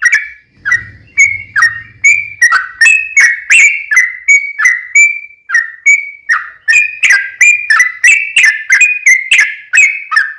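Yellow-vented bulbul (trucukan) singing a long, rapid, unbroken run of short liquid notes, about three to four a second. This is the bird's fast continuous 'ropel' song, used as a lure to make other trucukan answer.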